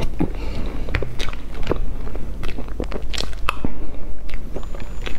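Mouth sounds of eating soft cream-frosted sponge cake: chewing with many short, sharp wet clicks and smacks.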